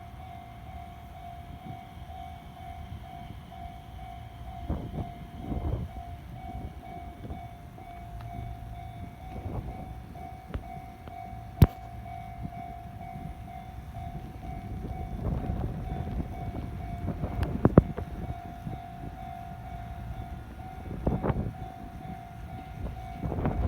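Nishitetsu electric train running at the station, a low rumble that swells and fades and builds again near the end. A steady high tone sounds throughout, with a sharp click about twelve seconds in and another near eighteen seconds.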